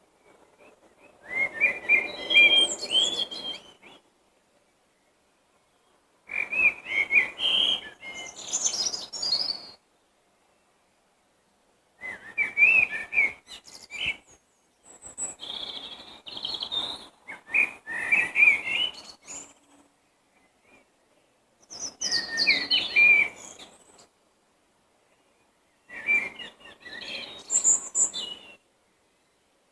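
A songbird singing in short, varied phrases of about two to three seconds each, seven in all, with pauses of a second or two between them.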